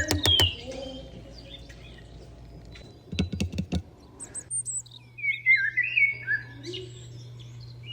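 Bird-like chirps that glide up and down in pitch, over a low steady hum, after a quick run of sharp clicks about three seconds in.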